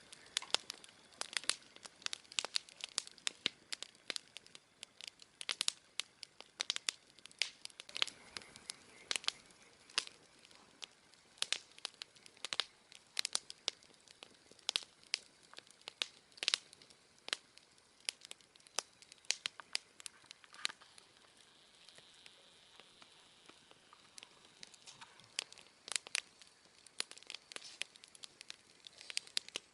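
Wood campfire crackling, with irregular sharp pops and snaps coming several times a second.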